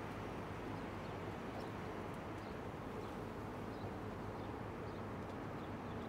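Steady outdoor background noise with faint, short high bird chirps now and then.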